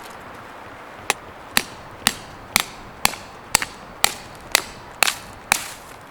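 Ten sharp, evenly paced strikes, about two a second, of a hand tool hitting something hard.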